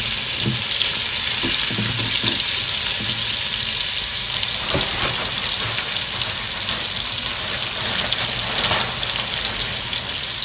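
Bratwurst pieces and sliced onions sizzling steadily as they fry in butter in a stainless steel pot.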